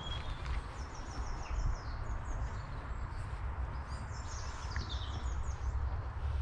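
Small birds chirping in quick runs of short high notes, over a steady low rumble of wind on the microphone.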